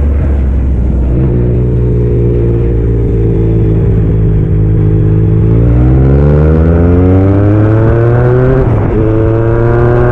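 Yamaha MT-09 SP's 890 cc three-cylinder engine through a Black Widow aftermarket exhaust, pulling under way. The revs hold fairly steady, then climb steadily from about halfway. Near the end they drop sharply and briefly, as at an upshift, then climb again.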